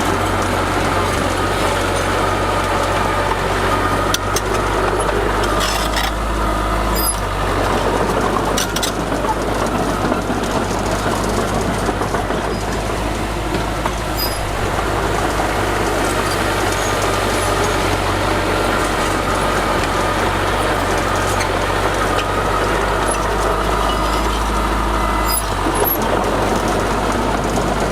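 Heavy diesel engine of earthmoving machinery running steadily under work, with a few sharp metallic clanks scattered through it.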